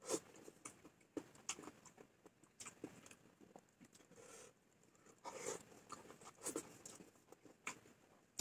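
Near silence: room tone with a dozen or so faint, irregularly spaced clicks and taps.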